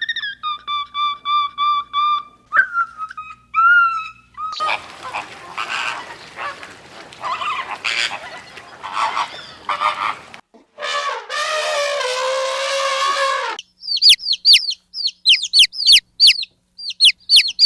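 A run of different animal calls one after another. First come repeated short pitched calls like a goose or other waterfowl. Then a stretch of noisy, pulsing calling and a long falling call. Near the end come rapid high, downward-sweeping bird chirps.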